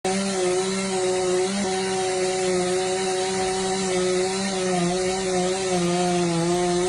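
Chainsaw engine running steadily at high revs, with the pitch beginning to drop right at the end.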